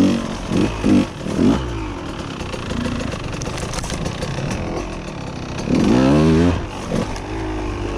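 KTM EXC 125 two-stroke enduro motorcycle engine running, blipped a few times near the start and revved up more strongly about six seconds in before settling back.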